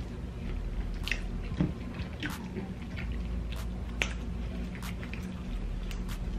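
Close-miked eating: chewing and lip-smacking with irregular wet mouth clicks, as soft White Castle slider buns are bitten and fried rice stir fry is chewed.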